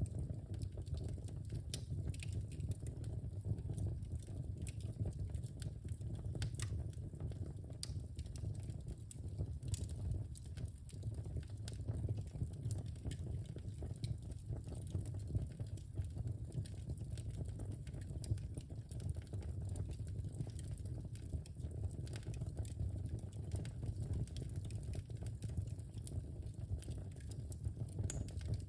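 Wood fire burning in a fireplace, crackling with many small irregular pops and snaps over a steady low rumble of the flames.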